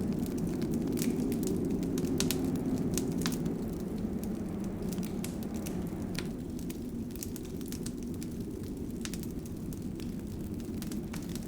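Wood fire burning in a fireplace: a steady low rush with scattered sharp crackles and pops at irregular intervals.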